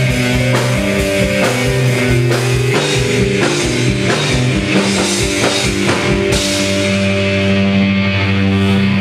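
Live rock band playing with a steady drum-kit beat under held bass and keyboard notes; the cymbals drop out about six seconds in.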